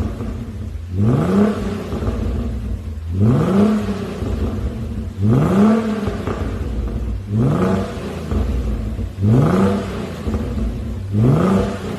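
Genesis G380's 3.8-litre V6 revved through a full custom valved exhaust: six short blips about two seconds apart, each rising in pitch and falling back to idle.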